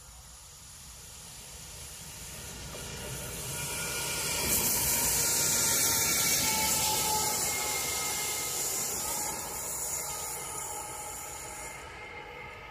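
An approaching locomotive sounds from a distance as a hiss of wheels on rails, with faint squealing tones. The hiss swells over the first few seconds, is loudest in the middle, then falls back near the end.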